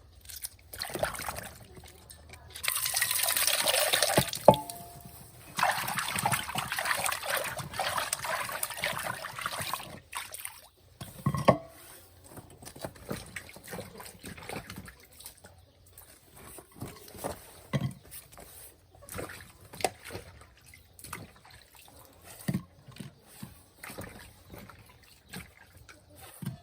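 Water pouring in two runs, the first about two seconds long and the second about four, followed by scattered light knocks and clinks.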